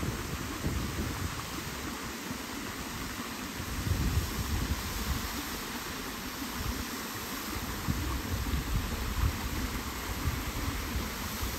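Steady rush of running water, with uneven low wind buffeting on the microphone.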